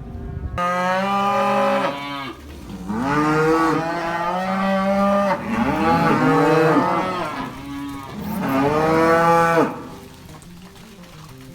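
Cattle mooing: about four long, drawn-out moos one after another, then quieter near the end.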